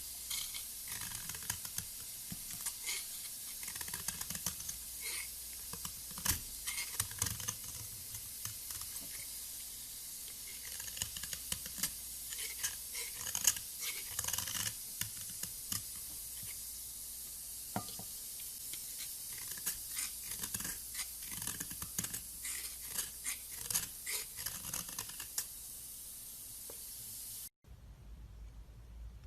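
A blade carving and scraping a bar of soap: many fine crisp scratches and little clicks over a steady hiss. It cuts off abruptly near the end, leaving a faint low rumble.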